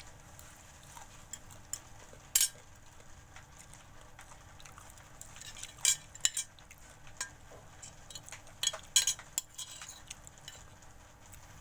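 Eating utensil clinking and scraping against a plate or bowl while noodles are eaten, in a few sharp clicks that come in small clusters, the loudest about two seconds in, at six seconds and at nine seconds.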